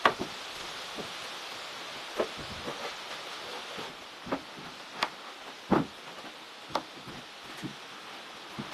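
Irregular sharp knocks and taps, about half a dozen spread unevenly, over a steady hiss.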